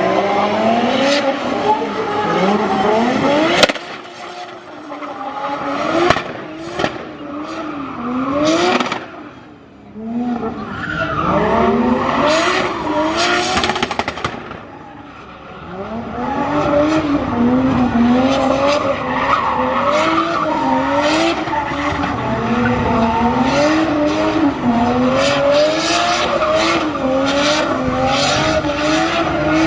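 Drift car engine revving hard in quick, repeated rises and drops of pitch while the tyres squeal through the slide, with sharp cracks along the way. The sound eases off briefly a few times before a long run of rapid, rhythmic revving with continuous tyre squeal in the second half.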